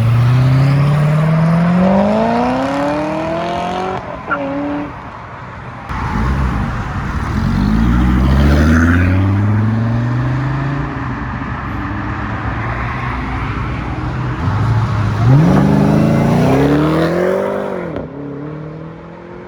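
High-performance cars accelerating hard, one after another: three runs, each engine climbing quickly in pitch under full throttle. The last one rises and then drops away near the end.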